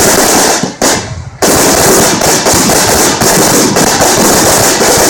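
A giant bonfire burning with loud, dense crackling and popping that briefly drops away a little under a second in.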